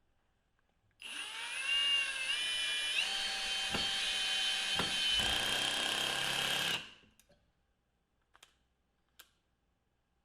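Milwaukee M18 2604 cordless hammer drill running with no load, its whine climbing in pitch in a few steps as the speed goes up, with two short knocks midway. It is released after about six seconds and winds down quickly, followed by a few light clicks.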